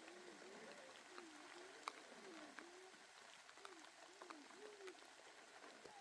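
Near silence: a faint wavering tone that rises and falls about twice a second, with a few faint ticks.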